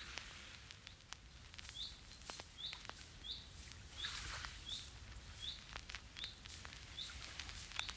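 A small bird chirping faintly and repeatedly, a short high chirp about every three quarters of a second from about two seconds in, over quiet room tone with soft scattered clicks.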